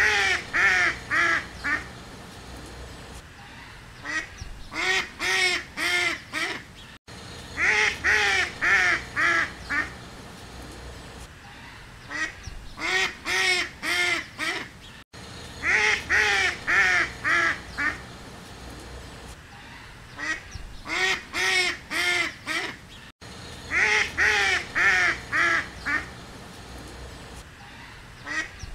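Duck quacking in runs of five or six quacks, two runs about every eight seconds. The same pattern repeats with abrupt cuts, like a looped recording.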